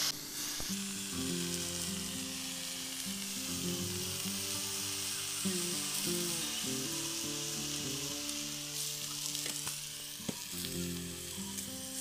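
Green leaves frying in a black wok over a wood fire, sizzling steadily, with a few clicks of the metal spatula as it stirs. Soft background music runs underneath.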